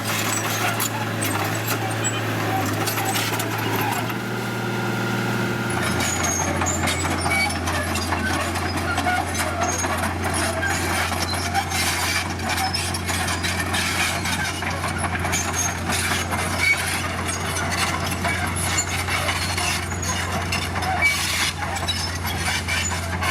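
Heavy diesel construction machinery running steadily, its low engine note dropping slightly about six seconds in, with metallic clatter over it.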